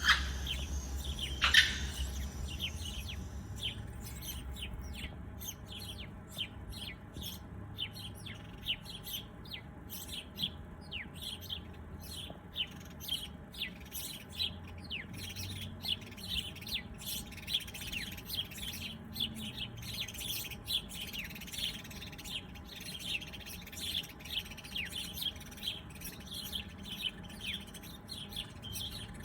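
Many small birds chirping: a dense, continuous stream of short, high chirps and tweets, with a couple of louder calls near the start.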